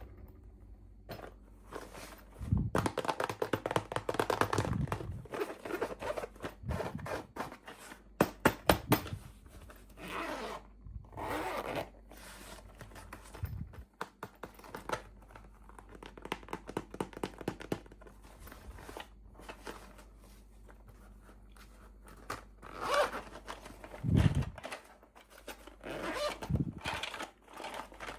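Packaging being opened and handled by hand: irregular bursts of tearing and crinkling with small clicks and taps.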